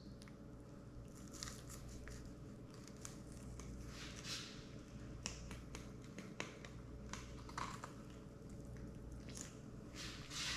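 Faint knife strokes filleting a spotted seatrout: soft scraping and scattered small clicks as the blade works through the flesh along the bones.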